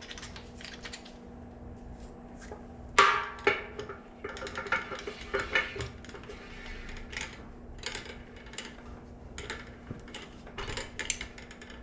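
Metal clinking and clanking as tools work at the fittings of a steel beer keg, with irregular taps and scrapes and one sharp metallic knock about three seconds in.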